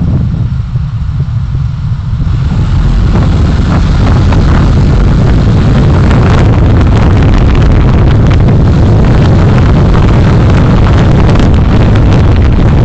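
Road and wind noise of a moving vehicle, with wind buffeting the microphone. It grows louder about two seconds in as the vehicle gathers speed, then stays loud and steady.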